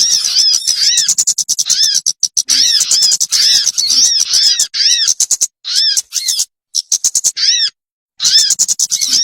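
Bird-lure (pikat) recording of a bird's chirping call: rapid, repeated notes that each rise and fall in pitch, mixed with clicky chatter. It cuts to dead silence a few times near the middle and again before the end, as an edited loop does.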